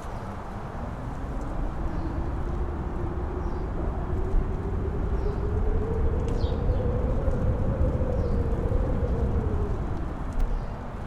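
Strong wind on a mountain top, gusting with a deep rumble on the microphone. A howling tone rises slowly over several seconds, then falls away near the end.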